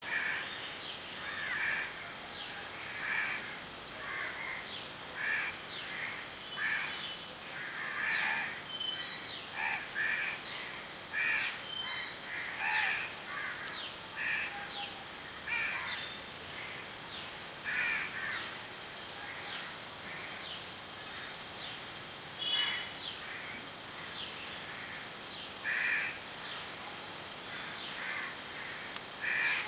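Birds calling: repeated short harsh calls every second or two, mixed with many thin high chirps that fall in pitch.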